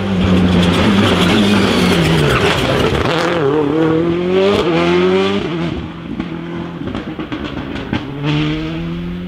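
Rally car engine passing close: its pitch drops as it brakes and downshifts about two seconds in, then climbs as it accelerates hard away. The sound fades after about five seconds, and an engine rises again near the end.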